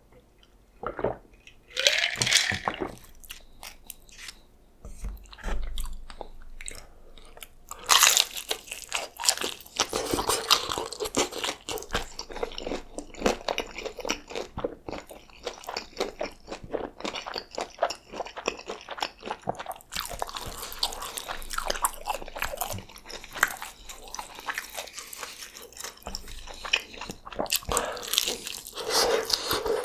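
Close-miked biting and chewing of crispy homemade birria tacos: loud crunchy bites a few times, between stretches of steady crackling, wet chewing.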